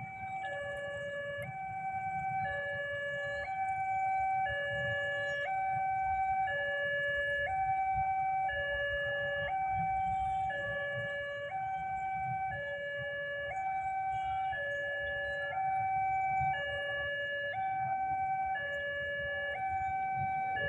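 Railway level crossing warning alarm: an electronic two-tone signal alternating steadily between a higher and a lower tone, each held about a second. It warns that a train is approaching the crossing.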